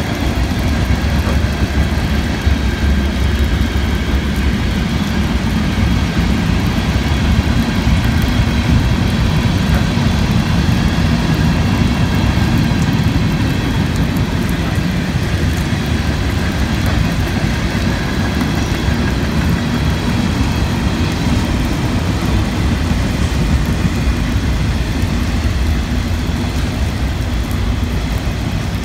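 A long mixed freight train of autoracks, covered hoppers and boxcars rolling steadily past, its wheels rumbling on the rails, with heavy rain falling.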